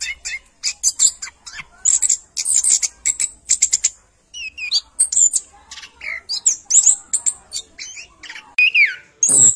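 A bird or birds chirping busily in quick, short, high notes, mixed with some sliding whistled calls. A short thump comes near the end.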